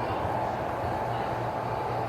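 O scale model diesel train running steadily along the track, an even rumble with a low steady hum.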